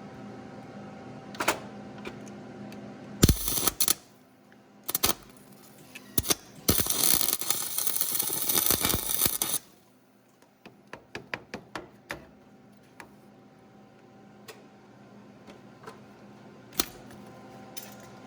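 Tools knocking and clattering on metal while working on the engine's broken exhaust manifold studs. A few sharp knocks come first, then about three seconds of loud, dense rattling noise, then a quick run of clicks.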